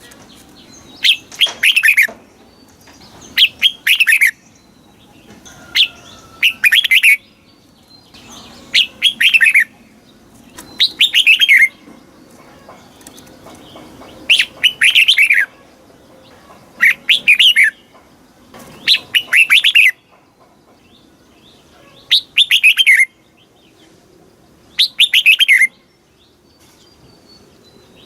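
Red-whiskered bulbul singing: short phrases of a few quick notes sliding down in pitch, repeated every two to three seconds.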